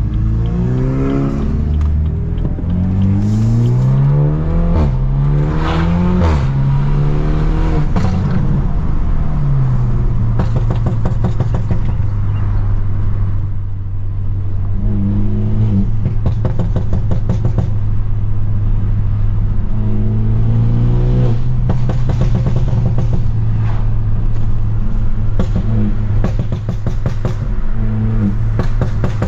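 Straight-piped, tuned BMW F30 328i's turbocharged four-cylinder engine pulling hard through the gears, its pitch climbing and dropping at each upshift four times in the first nine seconds or so. It then settles into a steady low cruising drone, with a few short throttle rises.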